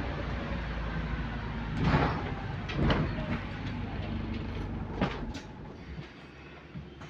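Electric bus running, heard from inside: steady road and drive noise with a faint motor whine. Three short hisses or clunks come at about two, three and five seconds in, and then the running noise drops away as the bus slows.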